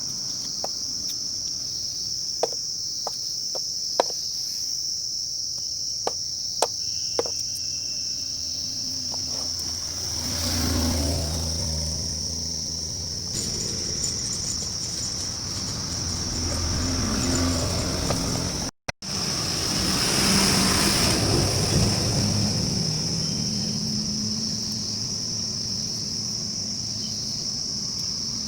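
Insects chirring steadily at a high pitch, with a few sharp clicks in the first seven seconds. A low vehicle rumble swells and fades twice, about ten and twenty seconds in.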